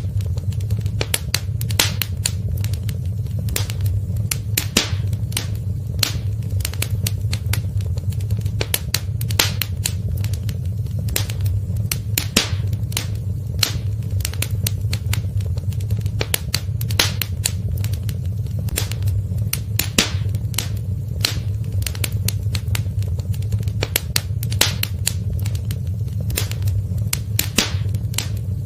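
Wood fire crackling in a fireplace: frequent sharp, irregular pops and snaps over a steady low rush of flame.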